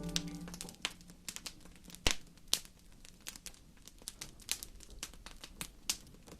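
Wood fire crackling: sparse, irregular pops and snaps. A held piano chord dies away in the first half second.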